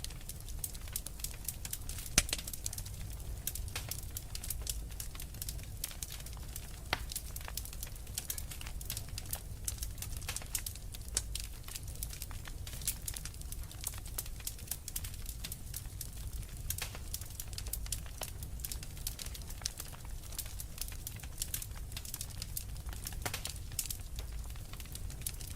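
Wood fire crackling in a fireplace: a dense, irregular patter of small snaps and pops, a few louder ones, over a steady low rumble of the flames.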